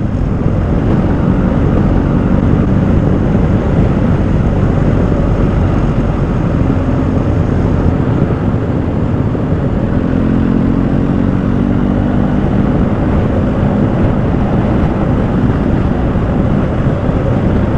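Motorcycle with sidecar riding at road speed: steady wind and road noise over the engine, whose note shows through faintly a few times around the middle.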